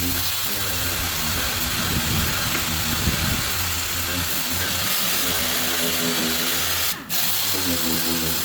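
Power tool running steadily with a loud hiss and a varying hum underneath, broken off briefly about seven seconds in.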